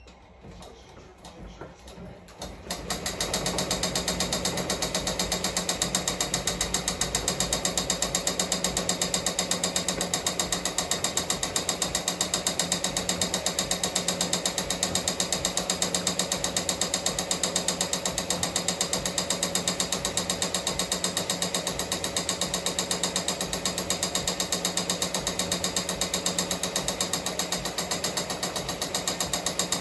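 Ricoma MT-1501 commercial embroidery machine starts about three seconds in and stitches at a steady, rapid rhythm, its needle bar and rotary hook clattering evenly.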